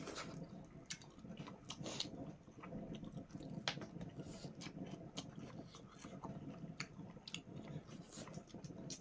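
People chewing and biting food close to the microphone, with many short clicks and crunches throughout.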